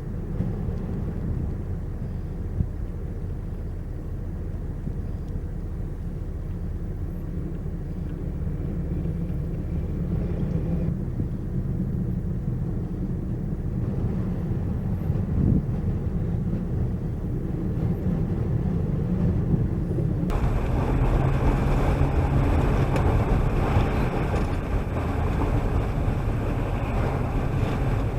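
Engine running with a steady low rumble. About twenty seconds in, the sound switches abruptly to a louder, brighter engine noise.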